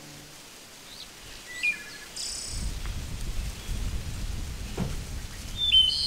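Outdoor ambience of birds chirping in a few short calls, with a low rumbling noise coming in about halfway through.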